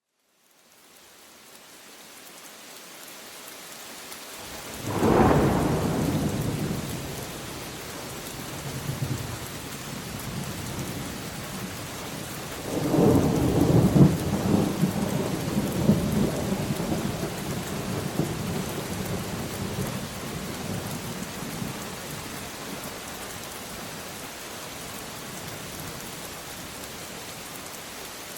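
Steady rain, fading in over the first few seconds, with two claps of thunder: a sharp one about five seconds in and a longer, rolling one about halfway through that slowly dies away under the rain.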